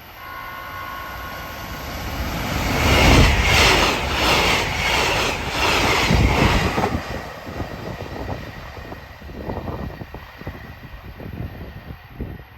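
JR Hokkaido 789 series limited express electric train passing at speed, with a quick run of wheel clatter over the rail joints about three to seven seconds in, then the sound fading as it moves away. A short steady tone sounds at the start.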